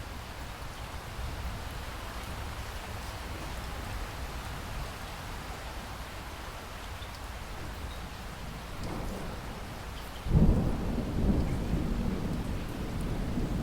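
Steady rain falling, with a clap of thunder breaking in suddenly near the end and rumbling on loudly.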